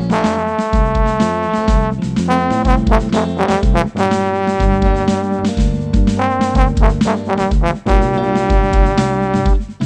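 Live band music led by a trombone playing long held melody notes, over a bass line and a steady kick-drum beat.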